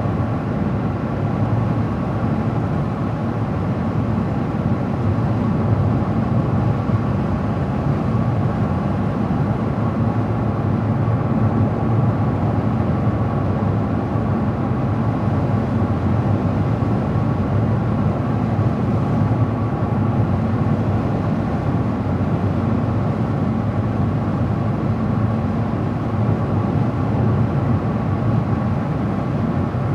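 Steady road noise of a car driving at speed: a low, even rumble of tyres and engine with a faint steady whine above it.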